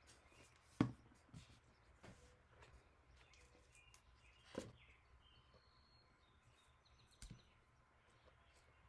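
Quiet handling sounds: a few separate knocks and taps, the sharpest about a second in and another a little past halfway, as a cardboard craft house is turned over and worked on.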